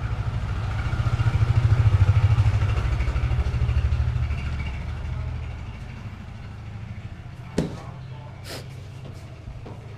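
A motor vehicle's engine running with a low pulsing note, growing louder to about two seconds in and then fading away over the next few seconds. Two sharp clicks follow near the end.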